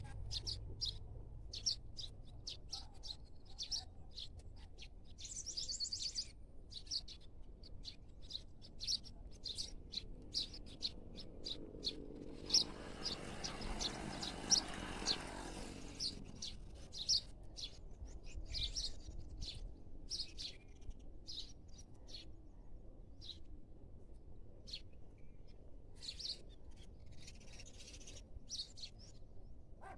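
Small birds chirping, short high chirps about once or twice a second. A rushing noise swells and fades for a few seconds midway.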